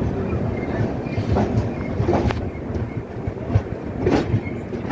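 Passenger train coach rolling slowly on the track: a steady low rumble with wheel clicks and a few short squeals.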